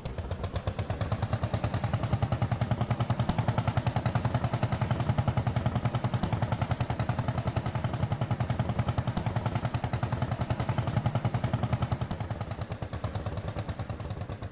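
Lanz Bulldog HR8's single-cylinder two-stroke hot-bulb engine running with a rapid, even beat of exhaust pulses. The beat builds up in the first second and eases off somewhat near the end.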